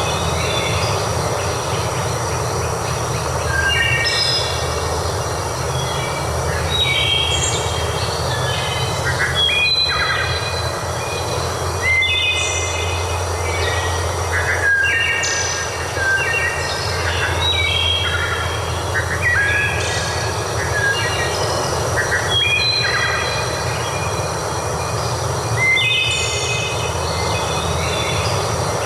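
A steady rushing of water, with short, high, pitched calls repeating every one to three seconds, typical of birds.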